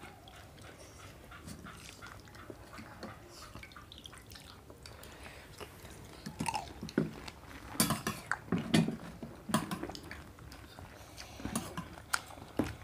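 People biting into and chewing crisp pani puri shells. Faint at first, then a run of short crunches and mouth sounds in the second half.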